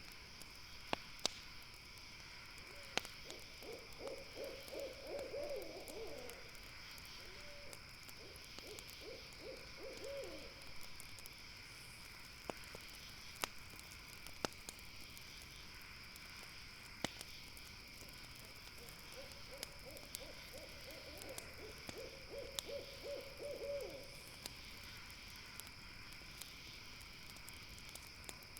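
An owl calling in quavering runs of rapid hoots, three stretches of a few seconds each. A steady high insect chorus goes on throughout, and a campfire gives occasional sharp pops.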